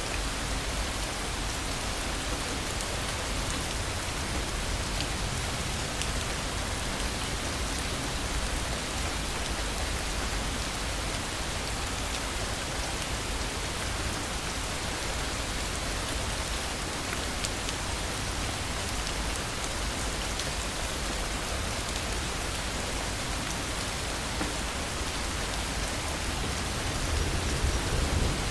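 Steady heavy rain falling, with scattered drop ticks, and a low rumble of thunder building near the end.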